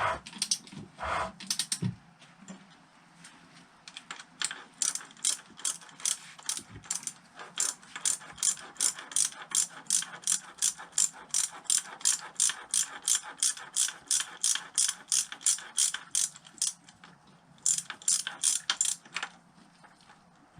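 Ratchet wrench clicking in a steady rhythm, about two to three clicks a second, with a pause before a short final run near the end, as a Honda XL600 single-cylinder engine is worked on by hand.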